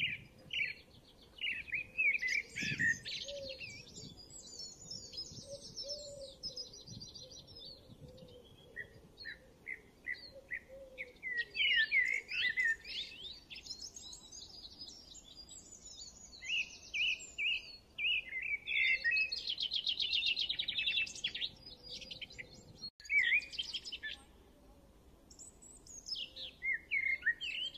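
Small birds singing: quick chirps and fast trills in bursts, with short lulls between them.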